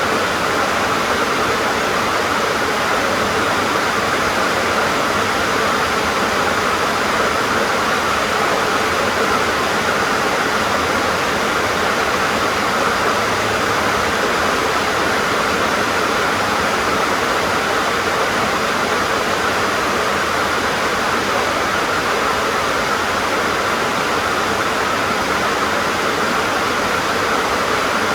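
Heavy rain drumming steadily on a corrugated tin roof, an even unbroken patter.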